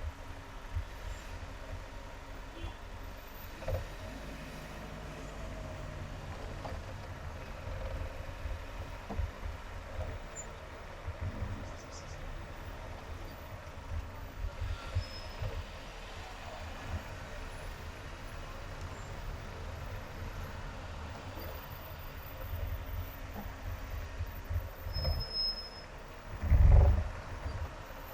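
Highway driving and traffic noise: a steady low road rumble with scattered short low thumps, and one loud low thump near the end.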